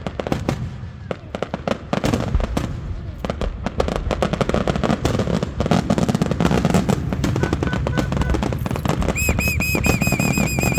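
Fireworks going off in a dense run of rapid crackling pops and bangs. Near the end a repeated high chirping tone joins in for about two seconds.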